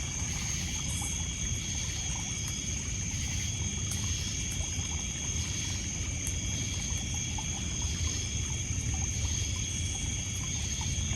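Night insect chorus of crickets and other insects: several steady high trills, with a pulsing chirp about once a second, over a continuous low wash of lake water lapping on a pebble beach. Faint small crackles of a wood fire come and go.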